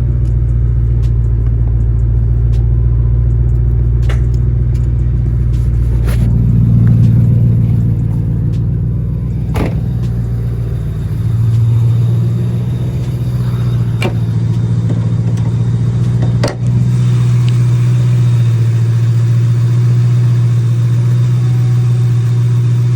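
A Ford 5.4-litre three-valve V8 in a Mustang GT running under way, heard from inside the car. The engine note swells briefly about six seconds in, eases off around ten seconds and picks up again, with a couple of sharp clicks.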